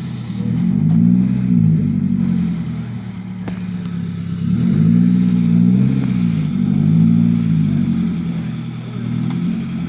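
Mazda Protege5's 2.0-litre four-cylinder engine running at idle, its pitch and loudness swelling up and back down a few times.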